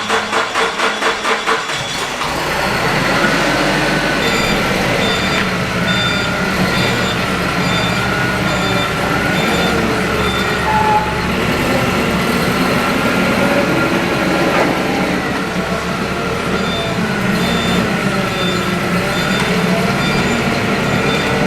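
A vehicle engine running steadily, pulsing rapidly for the first couple of seconds. A high short beep like a reversing alarm repeats about twice a second through much of the time.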